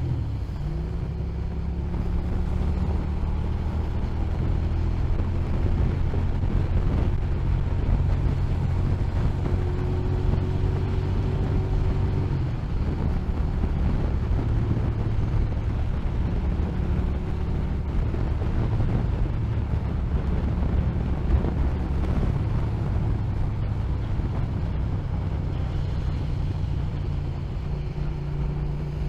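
Motorcycle engine running at steady riding speed under heavy wind and road noise. The engine note changes about twelve seconds in and again near the end as the speed changes.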